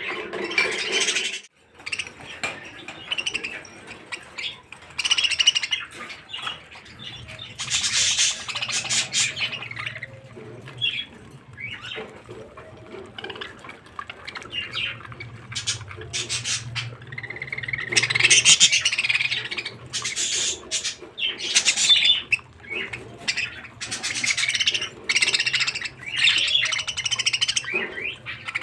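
Small cage birds chirping and squawking in repeated irregular bouts, over a faint steady low hum.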